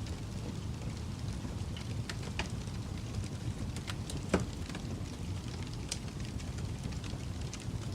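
Wood fire burning in a fireplace: a steady low rumble of flames with scattered crackles and one louder pop about four seconds in.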